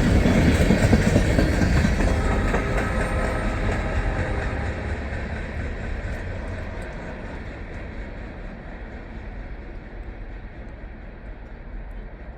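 Freight train cars rolling past on the rails with a clickety-clack, fading steadily as the train moves away.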